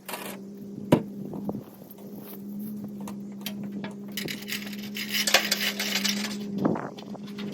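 Metal clinking and a sharp knock about a second in, over a steady hum.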